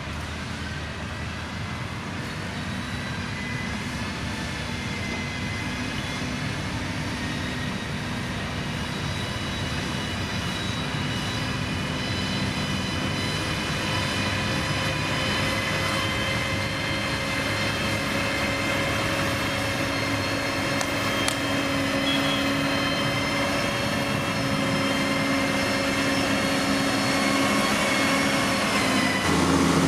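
Diesel engine of a heavy construction machine running steadily with a whine, growing gradually louder and slightly higher as it works closer.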